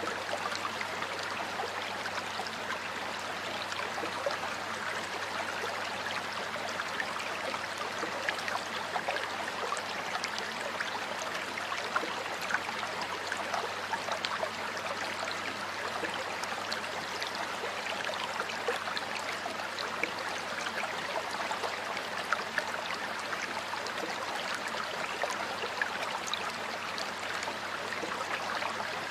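Water flowing steadily over rocks in a stream, a constant babbling rush with small splashes and trickles flickering through it.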